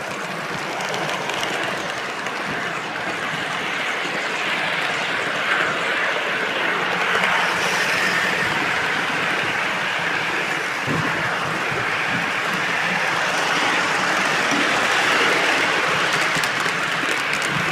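A train rolling past, a steady rush of wheel-on-rail noise that slowly grows louder.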